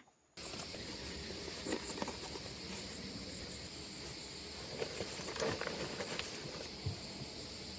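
Steady high-pitched insect chirring, with scattered rustles and a few light knocks, starting abruptly about a third of a second in.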